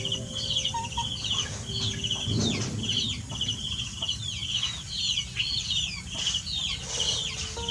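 Birds chirping and twittering without pause, quick high trills and short sweeping chirps repeating about twice a second. Under them runs a low, noisy background with a brief rumble about two and a half seconds in.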